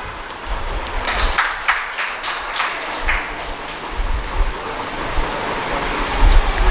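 Audience applause: scattered claps at first, filling into steady clapping, with a few low thumps near the end.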